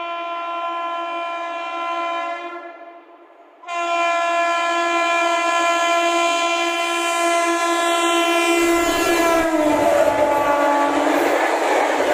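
WAP7 electric locomotive's air horn on a high-speed express running through the station: a long blast, a short break, then a second long blast whose pitch drops as the locomotive passes. This gives way to the loud rush and clickety-clack of the train going by at speed.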